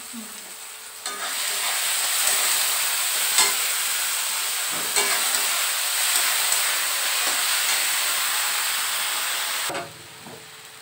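Onion, tomato and masala paste sizzling in hot oil in a metal kadai while a spatula stirs it, with a few spatula taps on the pan. The sizzling starts about a second in and cuts off sharply near the end.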